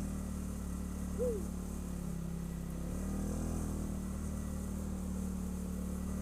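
ATV engine idling steadily. A brief rising-and-falling tone sounds about a second in.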